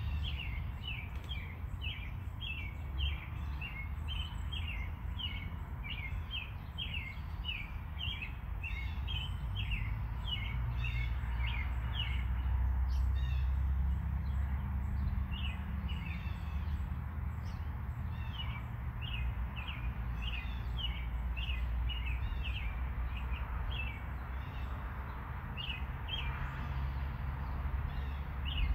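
A bird chirping over and over, about three short high chirps a second, with a few seconds of fewer chirps midway, over a steady low rumble.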